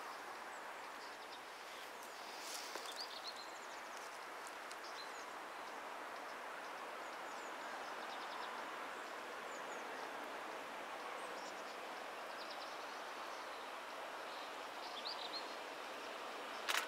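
Faint, steady noise of a distant electric train rolling closer on the rails, with a few bird chirps. A sharp click comes at the very end.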